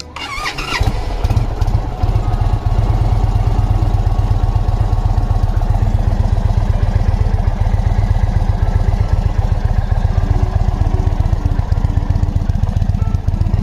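Indian motorcycle engine cranked on the starter for under a second, catching and settling into a steady idle: its first start of the riding season after sitting idle.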